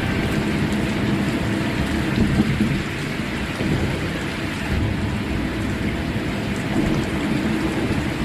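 Steady rain on a car during a drive, with a continuous low rumble underneath.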